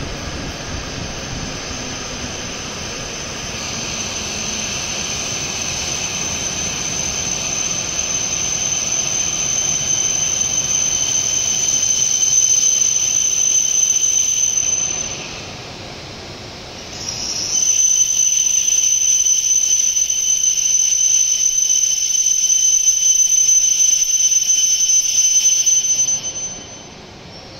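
E7-series Shinkansen train braking to a stop: a loud, steady high-pitched squeal over the rolling rumble of the cars. The squeal breaks off for about two seconds past the middle, comes back, and cuts off near the end as the train halts.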